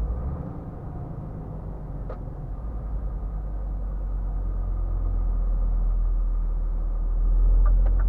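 Low, steady engine and road rumble of a Scania R450 truck heard from inside the cab, growing gradually louder, with a single click about two seconds in and a couple of sharp clicks near the end.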